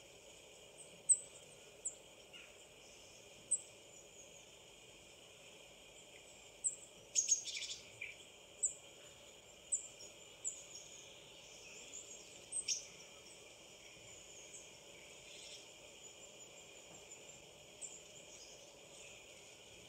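Birdsong from a bird-watching video played on a laptop: about a dozen short, high chirps at irregular intervals over a steady outdoor background hiss.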